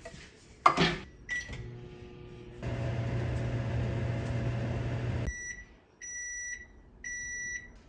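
Microwave oven: a knock and a single keypad beep, then the oven runs with a steady hum for about three seconds, stops abruptly, and beeps three times to signal the end of the heating cycle.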